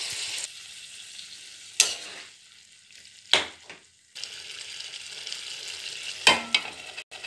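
Soya chunks and masala sizzling in hot oil in a pan while being stirred. The sizzle dips for a moment midway, and three sharp knocks sound against the pan.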